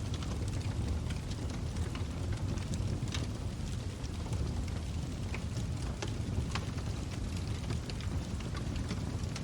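Wood logs burning in a fireplace: a steady low rumble of flames with frequent sharp crackles and pops.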